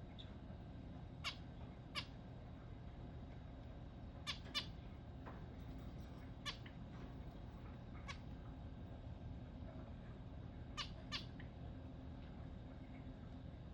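Zebra finch giving short, nasal calls, about nine of them, several in quick pairs, over a faint steady low hum.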